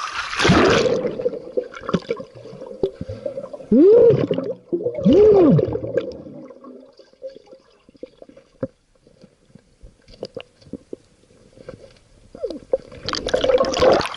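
Muffled underwater gurgling and bubbling from a swimmer under water, over a steady low hum, with two loud gurgles about four and five seconds in and scattered small clicks. A loud rush of splashing water near the end.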